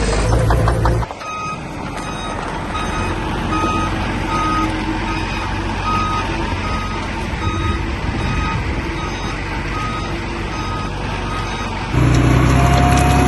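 Heavy construction vehicle's reversing alarm sounding a steady series of short beeps, about one and a half a second, over a diesel engine running. A louder engine is heard briefly at the start and again near the end.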